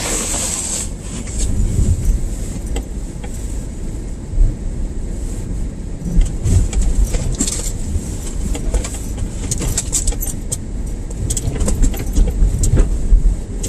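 Road and tyre noise inside a moving car on a snowy road: a steady low rumble with frequent irregular clicks and rattles.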